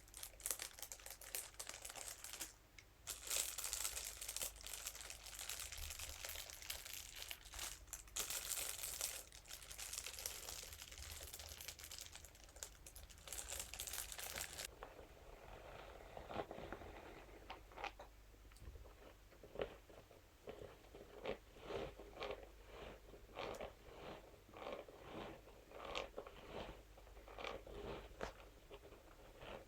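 Close-up ASMR crinkling and scratching: dense, crackly crinkling of a crinkly material for about the first fifteen seconds. Then it changes to a run of short, separate scratching strokes of a scalp massage brush, about two a second.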